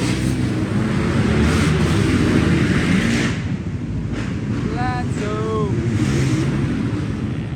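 Several small four-stroke pit bike engines revving on a dirt track, loudest for the first three seconds and then easing off. A short voice call comes about five seconds in.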